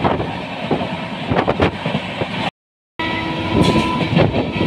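Moving passenger train heard from an open coach doorway: steady running rumble with the wheels clattering over the rails. The sound cuts out completely for about half a second just past halfway, then the running noise carries on.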